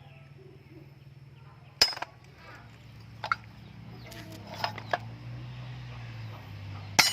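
Metal pieces clinking and knocking against each other: a handful of separate sharp strikes with a short ring, the loudest about two seconds in and another near the end, over a low steady hum.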